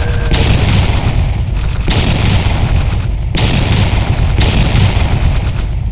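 Loud, dense crackling and booming of fireworks, cut together in abrupt segments every one to two seconds.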